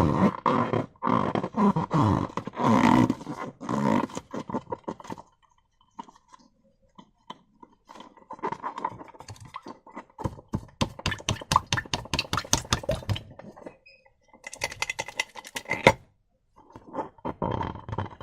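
Slime being squished, stretched and pressed by hand, giving wet squelching and quick runs of crackling clicks as air pockets in the slime pop. The sound comes in several bursts separated by short pauses, and one burst stops sharply about two-thirds of the way through.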